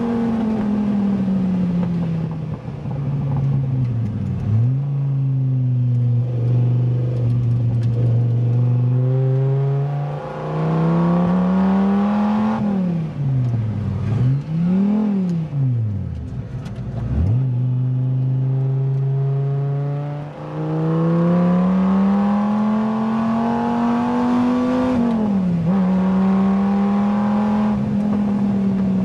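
Dodge Viper SRT-10's V10 engine with a modified exhaust, heard from the open cockpit under hard track driving. The revs climb and fall with the gear changes, with quick sharp drops and climbs near the middle.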